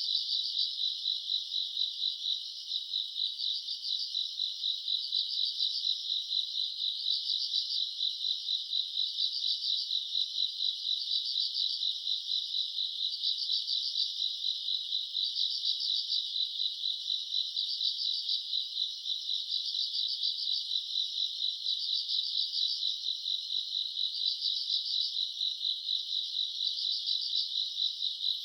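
Chorus of summer-night grass insects such as crickets chirping: a steady high, fast-pulsed trill, with a louder chirping phrase repeating a little slower than once a second.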